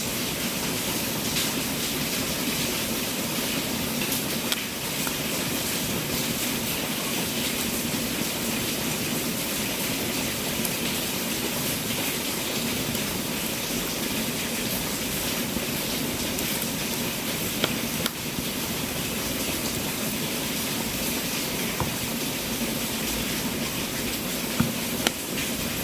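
Wood fire burning in a fireplace: a steady hiss of flames with a few sharp crackles and pops, two of them close together near the end.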